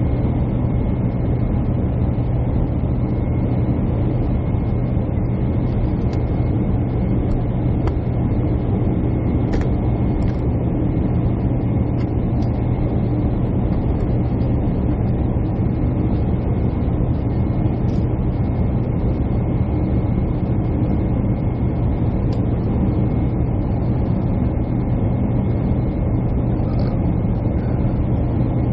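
Steady drone of a jet airliner heard inside the passenger cabin: engine and airflow noise, deep and even, with a faint high steady tone over it.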